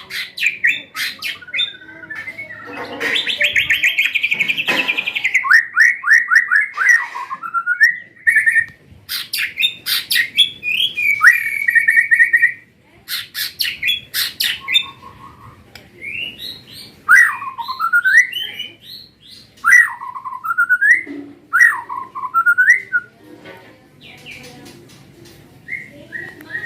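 White-rumped shama and other songbirds singing loudly: rapid chattering trills, sharp chips and repeated swooping whistled phrases, with short pauses between bursts. This is a training ('masteran') recording played to provoke caged birds to sing.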